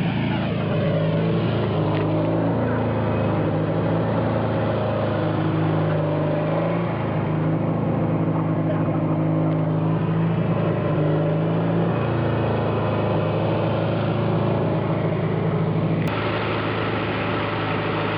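Small tractor's engine running at full throttle, steady, with its pitch shifting slightly a few times.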